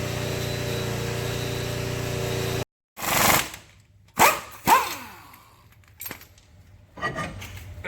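A steady mechanical hum with several constant tones cuts off after about two and a half seconds. Then come a few sharp metallic bangs and clanks with ringing, from tools at work on a car's suspension parts.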